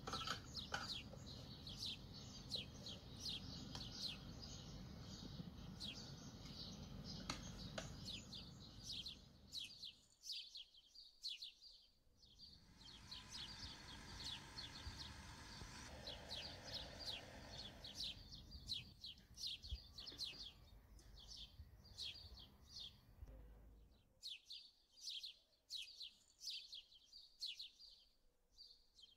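Faint small-bird chirping, short quick chirps repeated several times a second. For the first ten seconds a low motor hum runs beneath it, then it stops.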